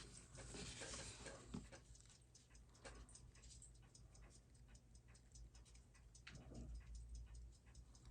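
Faint, irregular light clicks and small taps from watchmaking tools handling a disassembled Seiko 6R15 movement, over a low steady hum.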